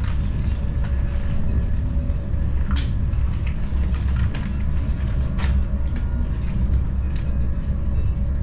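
Passenger train in motion, heard from inside the carriage: a steady low rumble, with a few short sharp clicks over it.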